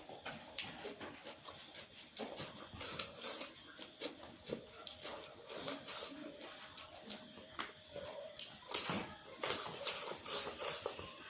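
A person eating close to the microphone: irregular wet chewing and lip smacks, with several louder smacks near the end.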